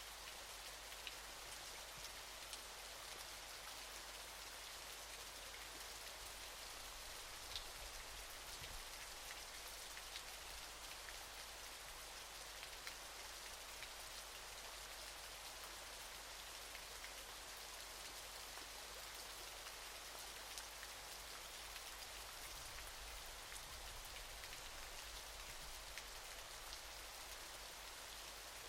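Waterfall: a steady, faint hiss of falling water, strongest in the high range, with scattered small splashing ticks.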